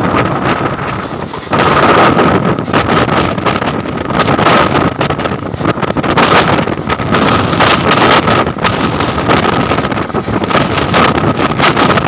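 Electric suburban local train running at speed: a loud rushing clatter with a steady whine throughout, buffeted by wind on the microphone. It gets louder about a second and a half in.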